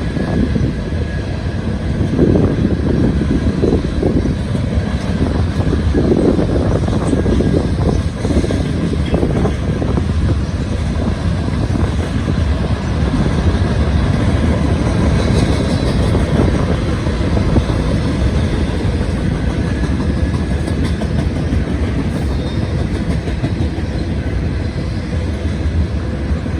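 Long CSX freight train's cars rolling past: a steady, loud rumble of steel wheels on rail, with irregular knocks over the track in the first third.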